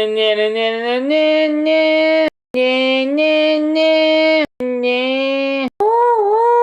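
A voice singing long held notes without words, stepping from pitch to pitch, with abrupt cuts and clicks between phrases and one note dipping and rising near the end.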